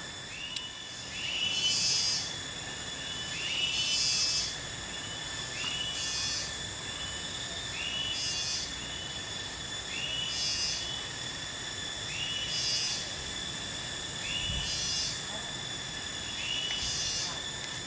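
Steady chorus of insects holding several high, unbroken tones, with a wild animal's call repeating about every two seconds: each a short arched note followed by a brief buzzing burst higher up.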